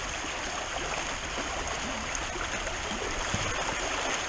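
Rain-swollen creek rushing past in a steady flow of water.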